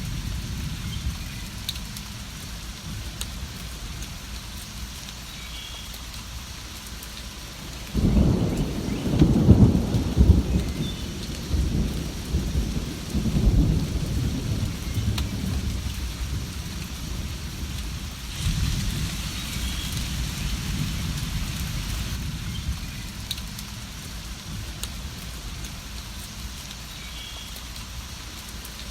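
Steady rain with rolling thunder. A low rumble breaks in suddenly about a third of the way in and rolls on, swelling and fading over several seconds. A second, softer roll of thunder follows.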